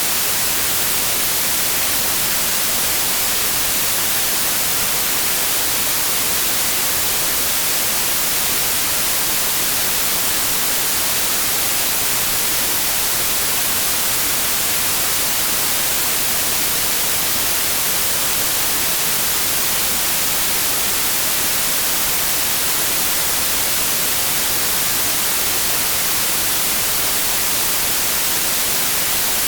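Steady, unbroken white noise: an even hiss weighted toward the high end, with no change in level or pitch.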